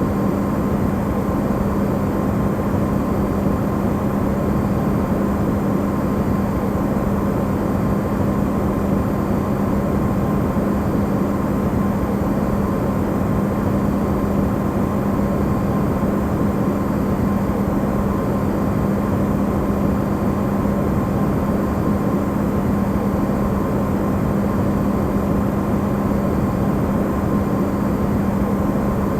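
Electrolux refrigerator running, recorded amplified: a steady hum over an even rushing noise that does not change.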